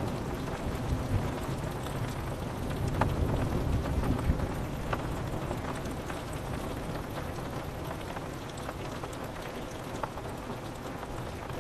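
Steady rain on a window pane, with the low rumble of thunder dying away over the first few seconds and a few sharper drops ticking here and there.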